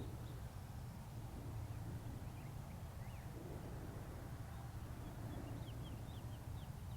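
Outdoor ambience: a steady low rumble with faint bird chirps, a few scattered around the middle and a quick run of short chirps near the end.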